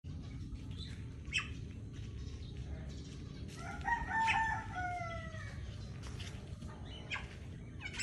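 A bird calls once about four seconds in, a drawn-out call falling slightly in pitch, over a steady low rumble of outdoor background. A few short sharp ticks come before and after it.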